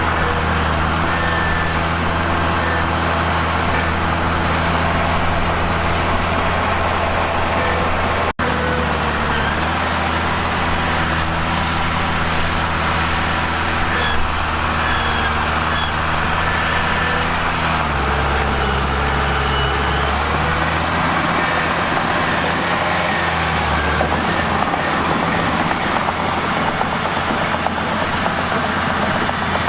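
Mitsubishi bulldozer's diesel engine running steadily, its pitch dropping and rising a few times as the engine speed changes, with a brief break about eight seconds in.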